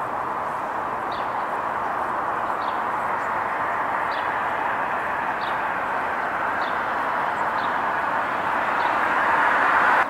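A small bird repeating a short high chip note about once every second or so, over a steady rushing background noise that swells a little near the end.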